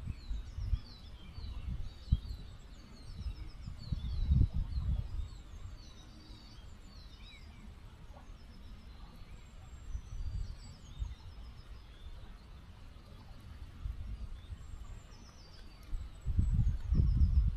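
Small songbirds singing, with quick series of high chirps and short trills, busiest in the first half and again near the end. Under them runs a low rumble that comes and goes and swells loudest near the end.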